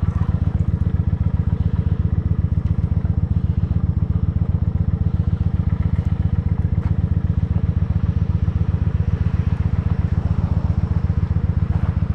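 Motorcycle engine idling steadily with an even, fast beat while it warms up.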